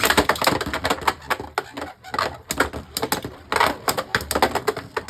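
Two Beyblade Burst spinning tops clashing in a plastic stadium: a rapid, irregular clatter of hard plastic-and-metal hits.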